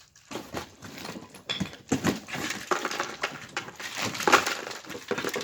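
Broken plastic box-fan parts being handled and pried at, with many irregular clicks, scrapes and clatters.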